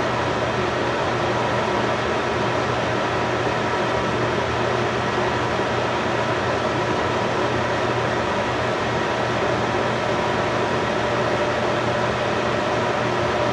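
Steady machine hum: an even hiss with several held tones, unchanging throughout.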